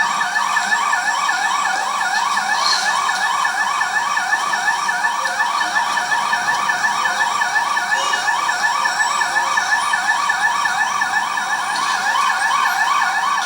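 Emergency vehicle siren on a fast yelp: rapid, evenly repeating pitch sweeps, several a second. The sound comes through a television's speaker.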